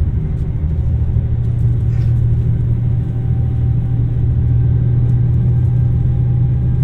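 Running noise heard inside a JR Shikoku 2700 series diesel express railcar under way: a steady low rumble with a low engine drone that grows stronger about a second and a half in.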